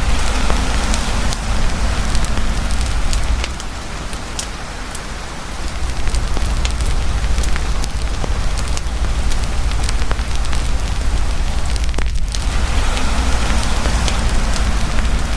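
Heavy rain pouring steadily with a wood campfire crackling through it, sharp pops scattered throughout over a deep low rumble. The whole sound drops back for about two seconds roughly four seconds in.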